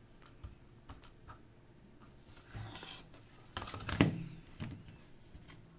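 Handling noise on a workbench: scattered faint clicks, a brief rustle between two and three seconds in, and a cluster of sharper clicks and knocks a little over three and a half seconds in, the loudest about four seconds in.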